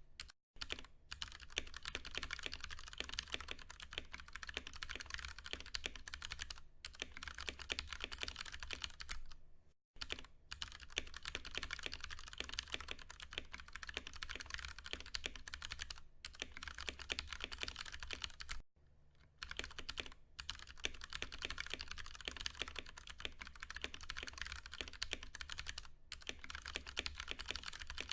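Fast continuous typing on a Ducky One 2 Mini mechanical keyboard with Cherry MX Brown tactile switches, a dense run of key clacks broken by brief pauses about a third of the way in and again about two thirds of the way in.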